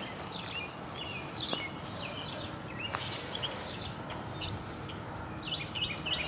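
Small birds chirping: scattered short, high chirps, then a quick run of repeated chirps, about four a second, near the end, over steady background noise.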